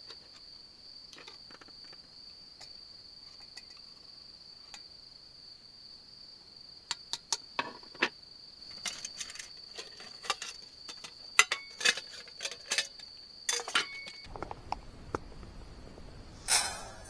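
Crickets singing a steady, unbroken high-pitched trill. A run of sharp clicks and knocks sets in about halfway through, and there is a short louder rustle near the end.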